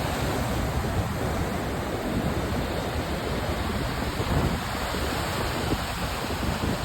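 Storm surf breaking and washing ashore as a continuous rushing noise, with strong wind rumbling on the microphone.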